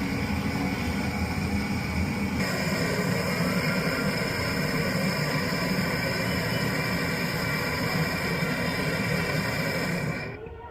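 Voltas deep freezer compressor running with a steady hum and hiss. It grows brighter and higher-toned a couple of seconds in, then cuts off suddenly near the end.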